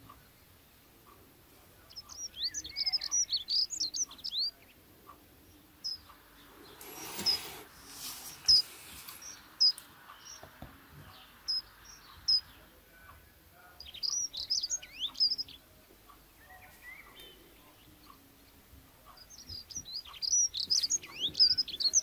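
Small birds chirping in bursts of quick high notes a few seconds long, about two seconds in, around fourteen seconds in and near the end, with single chirps between. A brief whoosh of noise comes about seven seconds in.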